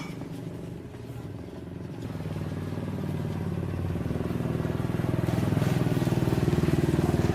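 A small engine running with a fast, even pulse, growing steadily louder over the first five seconds and then holding at a steady level.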